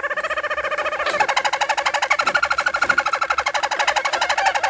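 Roller canary singing: fast pulsing rolls, the trill changing to a new, louder tour about a second in.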